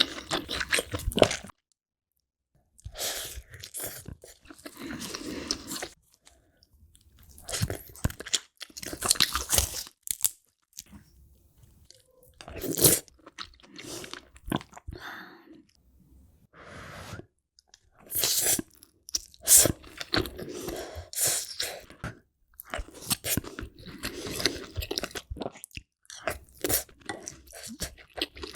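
Close-miked eating of a seafood boil: crunching, biting and wet chewing in bursts of sharp crackles, broken by short pauses.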